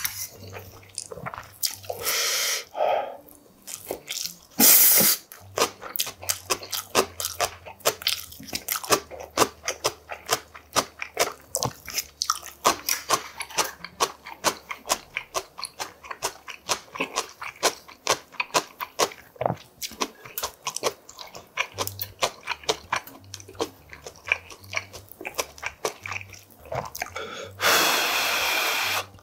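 Close-miked eating sounds: a man chewing food, with quick wet crunches about three a second. Near the end comes a long slurp from a spoonful of yukgaejang soup.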